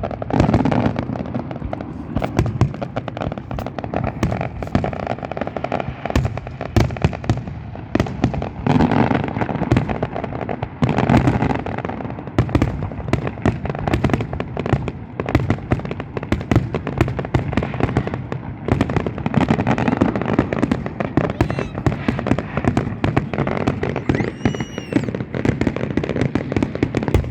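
A continuous barrage of fireworks: rapid overlapping bangs and crackling with a deep rumble, and a faint whistle near the end.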